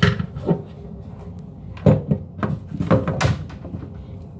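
Knocks and clunks of an automatic faucet being handled and set down into place on the sink, about six short hits with the loudest near the start and around two and three seconds in.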